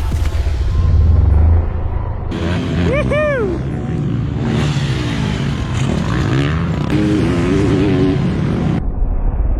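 Dirt bike engines running and revving on a motocross track, with one quick rev that rises and falls about three seconds in. The sound changes abruptly about two seconds in and again near the end.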